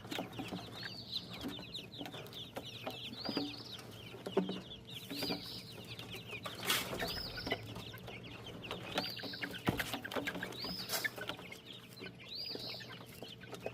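Baby chicks peeping: many high, short chirps that rise and fall, over and over, with a few scattered knocks.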